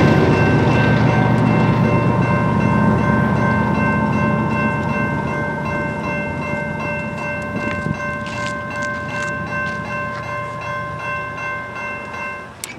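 Freight train rolling by, its heavy low rumble slowly fading, with a steady chord of high tones held over it that cuts off near the end.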